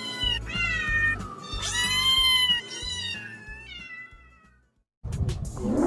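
Domestic cat meowing four or five times in a row over background music; a different, rougher animal call starts about five seconds in.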